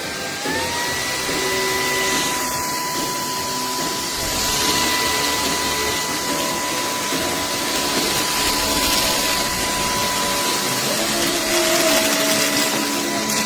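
SKIWEC cordless stick vacuum running. Its motor whine finishes spinning up in the first second, then holds at a steady pitch over the rush of air.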